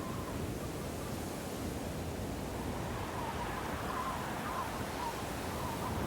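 Steady snowstorm wind, a deep even rush, with a faint wavering whistle that comes and goes, strongest about three to five seconds in.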